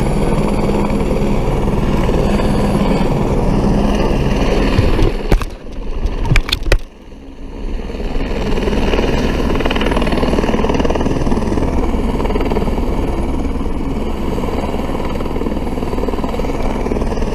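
Police motorcycle running at speed, with wind rushing over the microphone. A few loud, sharp bangs come in a quick cluster about five to seven seconds in.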